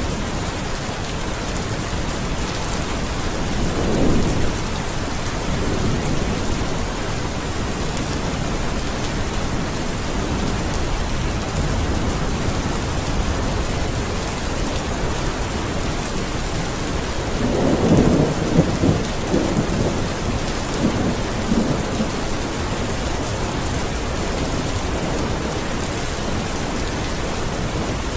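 Steady heavy rain hissing, with rolls of thunder rumbling in about four seconds in and more strongly in the middle of the stretch.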